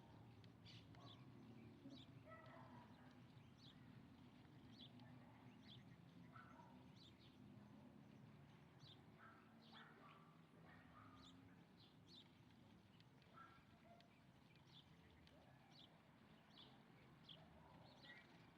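Faint bird calls: short high chirps repeating irregularly, about one a second, with some lower notes mixed in.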